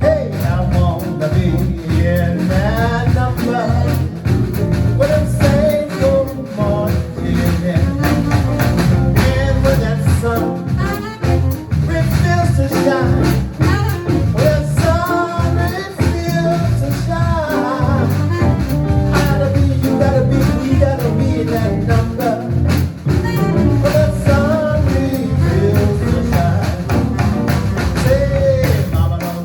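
New Orleans–style jazz band playing, a wavering lead melody over a steady bass and drum rhythm.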